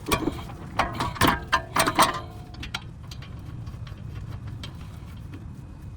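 A quick run of sharp metallic clanks and clicks from tools and metal car parts being handled, loudest about two seconds in, then dying away.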